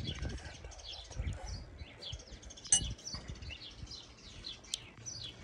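Small birds chirping over and over, short high calls with a low rumble under them, and one sharp click about three seconds in.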